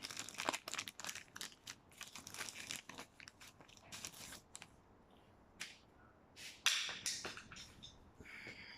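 Parts being handled at a workbench: a run of light clicks, scrapes and rustles, with a sharper knock about two-thirds of the way in.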